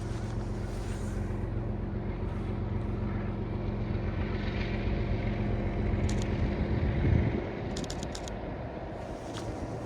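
Diesel freight locomotive engine running steadily as it passes, loudest about seven seconds in, then dropping to a lower rumble.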